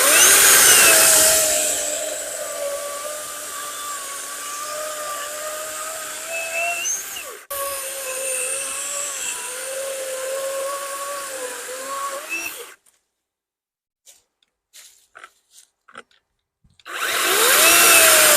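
Worx WG385E 16-inch cordless chainsaw cutting through a log: an electric motor whine with the chain's rasping hiss, the pitch wavering and dipping as the chain loads in the wood. It cuts out sharply about halfway through, runs again until about two-thirds of the way in, and after a few near-quiet seconds of small clicks it spins up again near the end.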